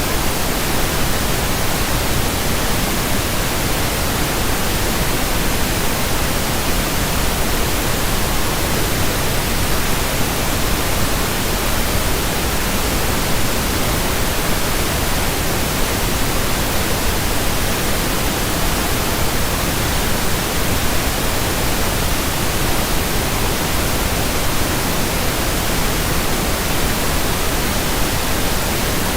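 Steady pink noise: an even, unchanging hiss across the whole range, with no variation or events.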